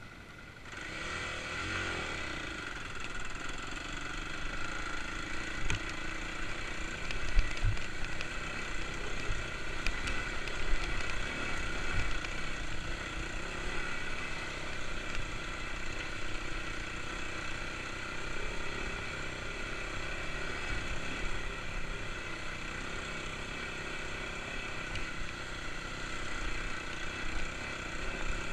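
Kawasaki KLX250's single-cylinder four-stroke engine running steadily as the bike is ridden, coming up in the first couple of seconds, with a few sharp knocks along the way.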